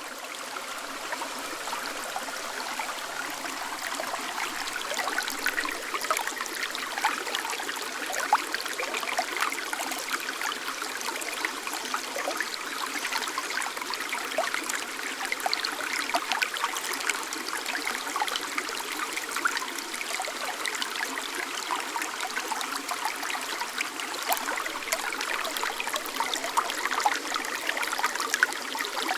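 Shallow snowmelt mountain stream babbling steadily, with many small splashes and gurgles throughout.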